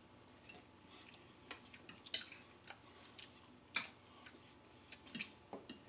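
People eating: faint chewing and mouth sounds with scattered short clicks and smacks, two louder ones about two and four seconds in.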